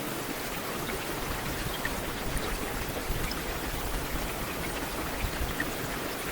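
Heavy rain falling steadily, a dense even hiss with scattered individual drops pattering.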